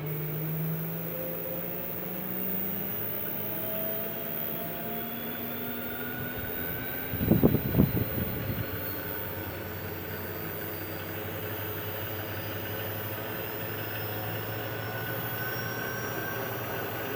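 Treadmill drive motor running, its whine slowly rising in pitch as it speeds up. A short cluster of loud knocks comes about halfway through.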